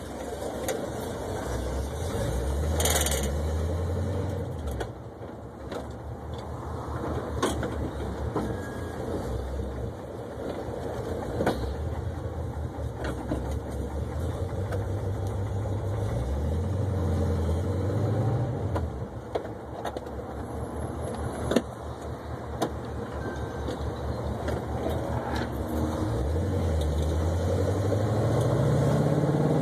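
1972 Oldsmobile 442's V8 engine driving the car, its note rising several times as it accelerates and dropping back as it eases off in between.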